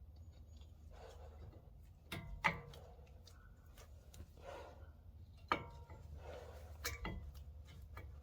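Metal brake parts clinking as front brake pads, clips and caliper are handled and fitted: about four sharp clinks with a short ring, the loudest about two and a half and five and a half seconds in, between heavy breaths.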